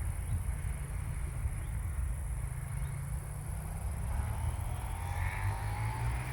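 Wind rumbling on the microphone, with a faint steady high-pitched hiss above it.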